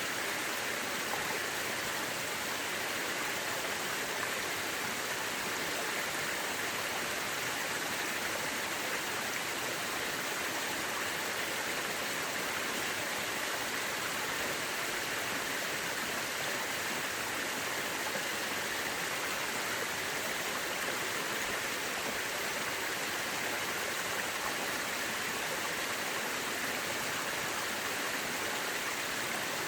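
Mountain river rushing over rocks: a steady, even water noise without any change.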